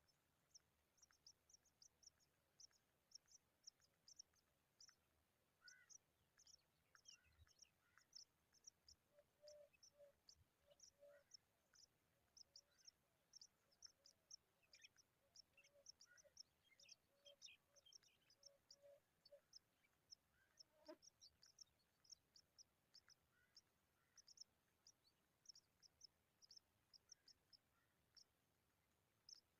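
Faint, rapid high-pitched bird chirping, short notes repeating several times a second throughout, with a cluster of lower, softer calls in the middle.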